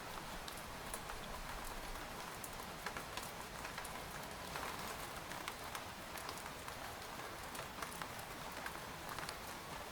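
Rain falling steadily on a tent: a constant patter with many separate drops tapping sharply on the fabric.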